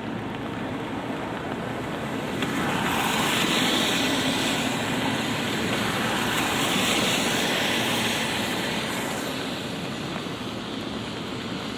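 Light rain falling steadily on a city street, with a vehicle passing on the wet road: its tyre hiss swells from about two and a half seconds in, holds through the middle and fades near the end.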